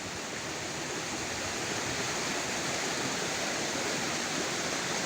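Steady rush of running water, an even hiss.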